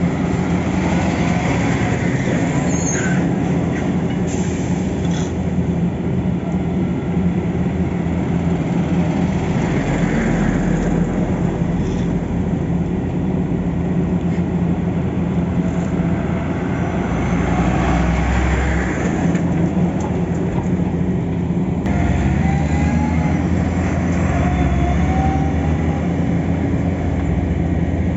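Diesel engines of heavy road-building machinery running steadily while asphalt is laid, a continuous loud mechanical drone with no breaks.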